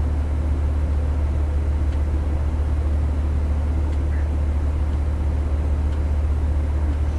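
A steady, unchanging low mechanical drone of running machinery, with an even hiss over it.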